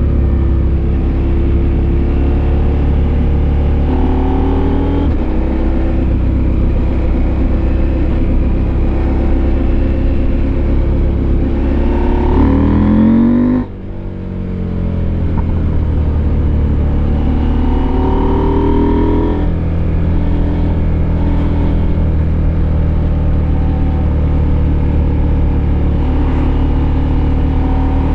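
Husqvarna Norden 901's parallel-twin engine running under way, heard raw from on board. The pitch climbs as it accelerates, drops abruptly about halfway through as the throttle closes for a gear change, then climbs again.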